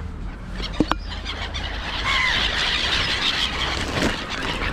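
A flock of gulls squealing and calling at once, many overlapping high calls that swell about two seconds in, as the birds crowd in on food put down for them.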